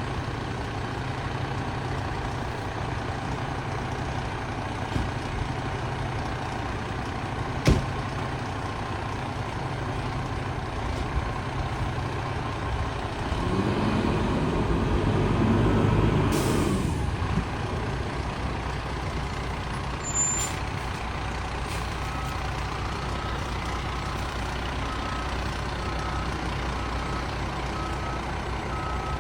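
Fire engine's diesel engine running steadily while reversing, with a single sharp click about a quarter of the way in. Around the middle the engine revs up and falls back, ending in a short air-brake hiss. In the last part a backup alarm beeps about once a second.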